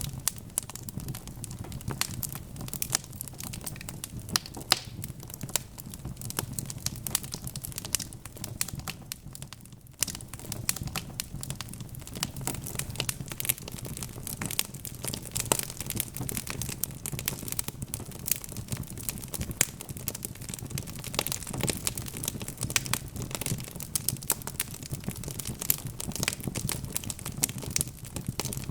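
Wood fire crackling: a dense, steady run of small pops and snaps over a low rumble, thinning briefly about nine seconds in.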